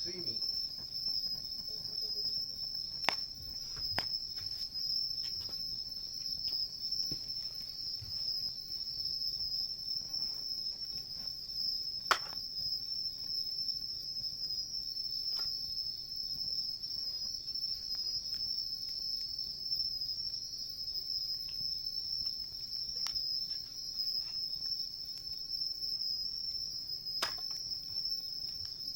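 Crickets trilling steadily in a high, unbroken chorus, with a few single sharp pops from the crackling wood campfire, the loudest about twelve seconds in.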